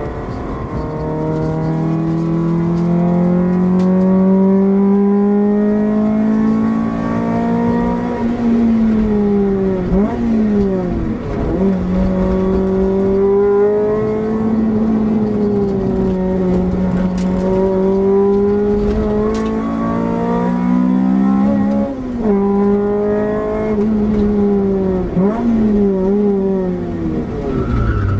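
Honda Civic SiR's B16B four-cylinder engine heard from inside the cabin, pulling hard on a race circuit. Its pitch climbs slowly for long stretches, then dips sharply and recovers about four times as the driver lifts off and changes gear.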